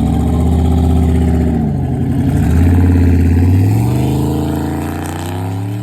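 A car engine accelerating hard. The revs dip about two seconds in, as at a gear change, then climb steadily again while the sound grows fainter toward the end as the car pulls away.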